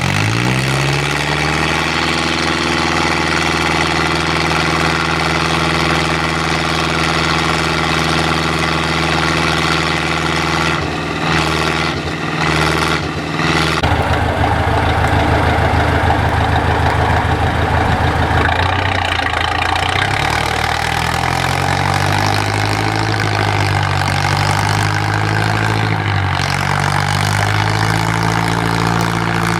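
IFA W50 truck's diesel engine running loud, holding steady revs at first. About halfway through the note breaks up in a few brief dips. After that the revs sag and rise and fall again.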